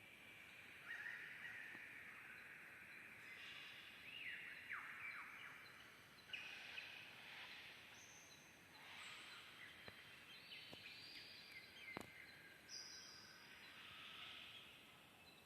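Several birds singing and chirping at once in a forest, faint, with many overlapping trills and calls and one small click about twelve seconds in.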